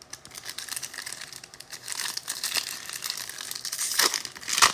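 Foil wrapper of a football trading card pack crinkling and crackling as it is handled and ripped open. The crackling gets busier about halfway through, with the sharpest crackles near the end.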